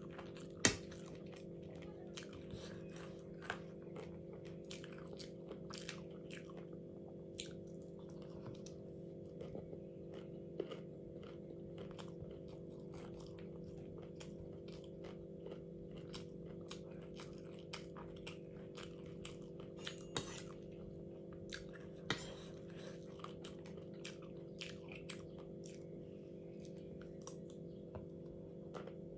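A person chewing and biting crunchy food close to the microphone: an irregular run of small crisp crunches and clicks.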